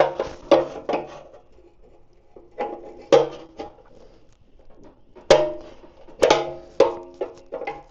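Metal parts and tools clanking and tapping against each other, about a dozen sharp strikes in three groups, each with a short metallic ring.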